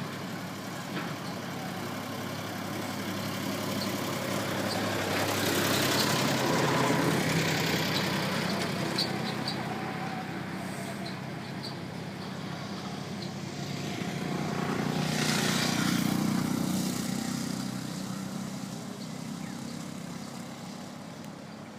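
Road vehicles passing on the road, their engine and tyre noise swelling and fading away twice, over a steady low engine hum.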